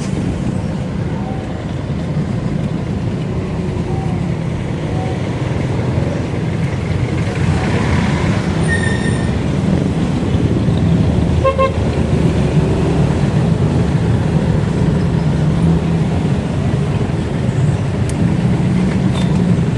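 Steady low wind and road rumble from riding a bicycle in traffic. A short high-pitched toot comes about nine seconds in, and a brief pulsing beep follows a couple of seconds later.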